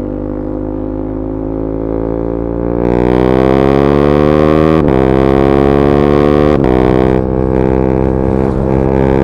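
KTM 390 Duke's single-cylinder engine through an Akrapovic slip-on exhaust with the catalyser removed, accelerating hard, its pitch climbing. Twice, about five and six and a half seconds in, the sound cuts for an instant and drops in pitch: clutchless quickshifter upshifts. Pitch then climbs again after each shift.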